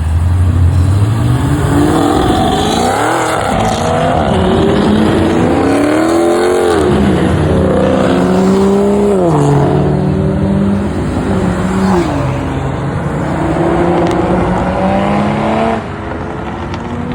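Car engine revved repeatedly. The pitch climbs and is held for a couple of seconds at a time, then falls back, four or five times over, and the level drops near the end.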